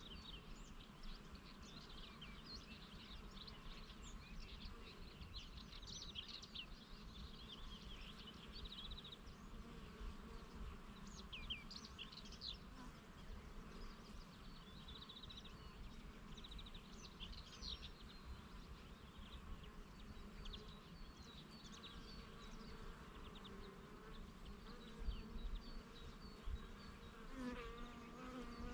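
Bees buzzing among flowers, one flying close near the end as a louder steady buzz. Small birds chirp and trill in the background.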